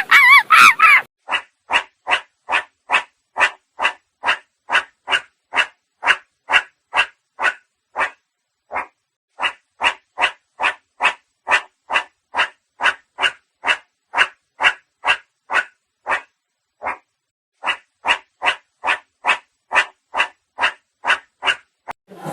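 An animal call repeated in a very even rhythm, short sharp calls about twice a second, with a brief gap now and then.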